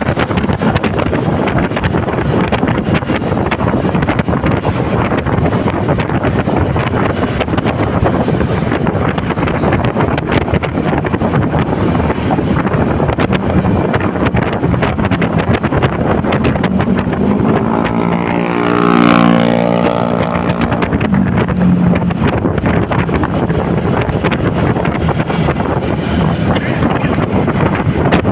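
Wind buffeting the microphone over the motorcycle's engine and surrounding traffic. A pitched, steady tone from another vehicle rises out of the noise for about three seconds just past the middle.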